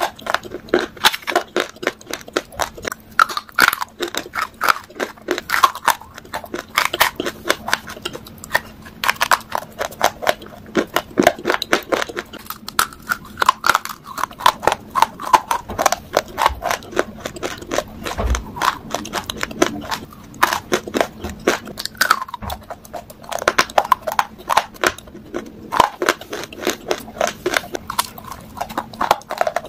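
Close-up mouth sounds of a person biting and chewing brittle pieces of shale and baked clay: dense, sharp crunches several times a second, with brief pauses between bites.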